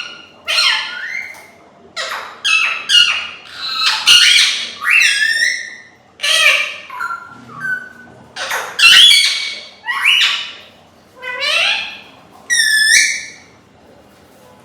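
Pet parrot squawking: a dozen or so loud, harsh calls, each under a second, some gliding up or down in pitch. The calls stop about a second before the end.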